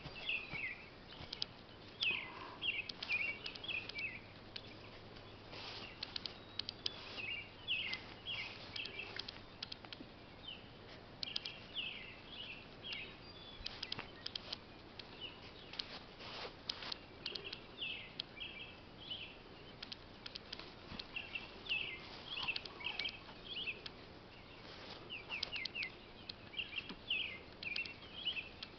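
Birds chirping: quick runs of short, falling high notes that repeat every few seconds, with scattered soft clicks and rustles.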